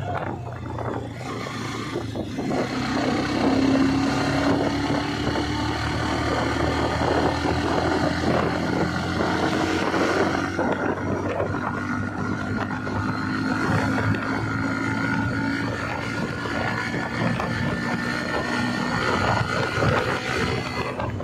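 Motorcycle engine running steadily while riding, its note drifting slightly lower over the ride.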